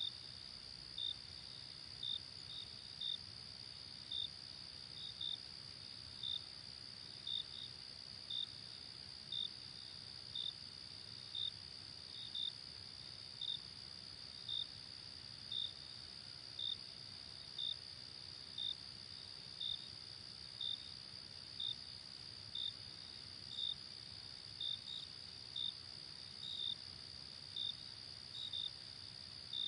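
Night insect chorus: a steady high-pitched trill with a cricket chirping about once a second, now and then two chirps close together.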